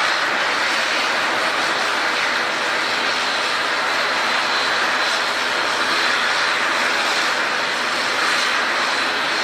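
Airliner engines running steadily: an even rush with a faint high whine above it, unchanging in level throughout.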